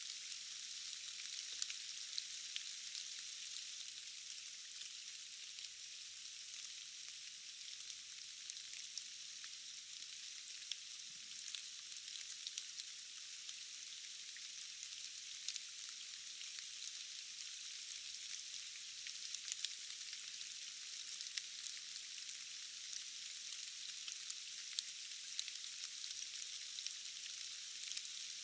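Steady rain falling: an even, thin hiss with no low end, sprinkled with many small sharp drop ticks.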